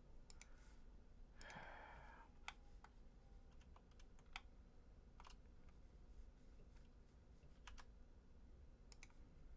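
Faint, scattered computer keyboard and mouse clicks, single clicks spaced about a second apart, with a short soft rush of noise about one and a half seconds in.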